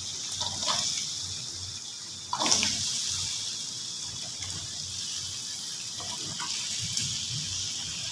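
Cubed raw potatoes being tipped into a wok of hot, simmering tomato masala: a steady sizzle with a few short crackles as pieces land, the loudest about two and a half seconds in.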